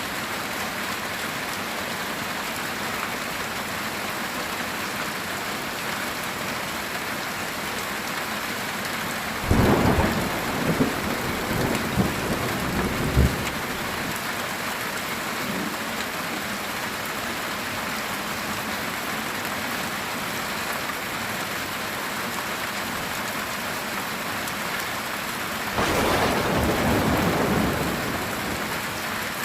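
Heavy rain drumming steadily on a metal tin roof, with thunder: a rumble with several sharp claps about ten seconds in, and a longer rumble near the end.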